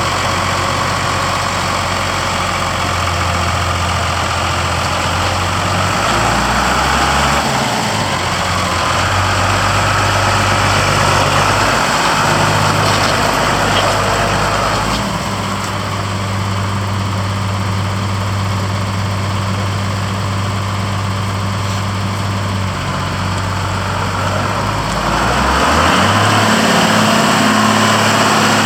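Mercedes-Benz MB Trac 1000 tractor's diesel engine running steadily, its pitch changing a few times as the engine speed shifts.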